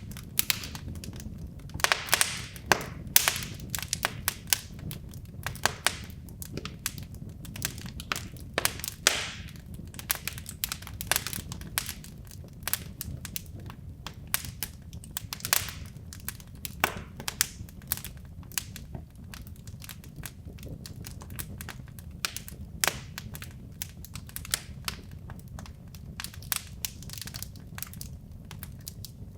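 Wood logs burning in a fireplace: irregular sharp crackles and pops, a few of them loud snaps, over a steady low rumble of the flames.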